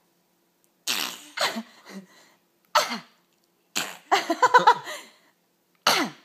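A young child making silly sneeze- and cough-like vocal noises: about five short bursts, several falling in pitch, with a quick run of pitched yelps near the middle.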